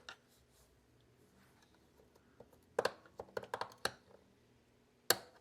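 Small sharp clicks and taps of hand tools against the robot vacuum's plastic housing: a quick cluster of clicks about three seconds in, then one louder click near the end.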